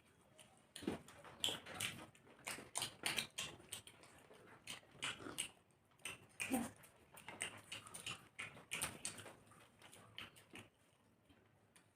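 Eating sounds of people eating rice and chicken kosha: irregular wet chewing and lip-smacking, several smacks a second.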